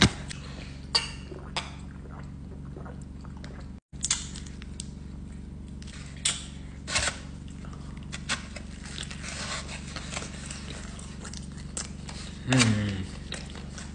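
Close-mic mouth sounds of a person eating a fried hot chicken slider: chewing with scattered wet smacks and clicks. The sound drops out for a moment about four seconds in, and near the end comes a short, loud falling vocal hum.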